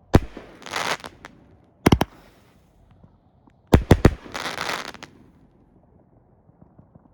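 Alien Fireworks 'Alter Ego' consumer firework firing in three volleys of sharp bangs. The first and last volleys are followed by about a second of crackling before it falls quiet about five seconds in.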